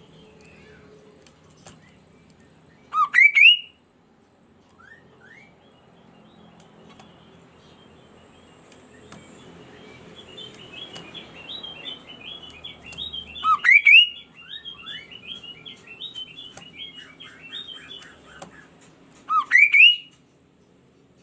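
Kaso-kaso bird calling: three loud calls, each a quick cluster of rising, upward-sweeping notes, the first a few seconds in, the second about halfway through and the third near the end. From about halfway in, a rapid chattering run of shorter notes continues until just before the last call.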